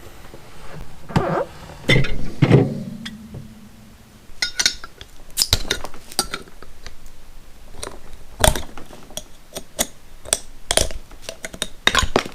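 Metal bottle opener clinking and scraping against a glass bottle's cap in a string of irregular sharp clicks, failing to pry it off because the opener is dull.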